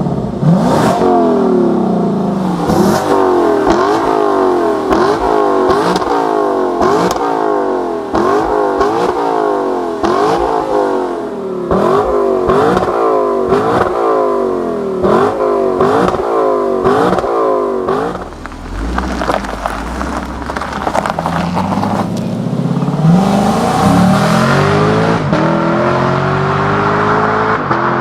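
2020 Lexus LC 500's 5.0-litre V8 revved in quick repeated blips, its pitch rising and dropping sharply a little more than once a second, with sharp pops as the throttle closes. After a few seconds of deep low rumble it revs up again in one long, steady climb near the end.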